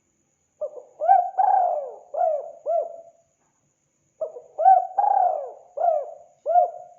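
Spotted dove (tekukur) cooing in two phrases about a second apart. Each phrase is about five rounded coos, and the middle coo is the longest and loudest.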